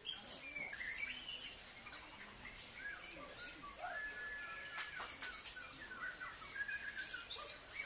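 Many caged songbirds singing at once, a dense mix of overlapping chirps and whistled phrases, with one long level whistle held for about a second, about four seconds in.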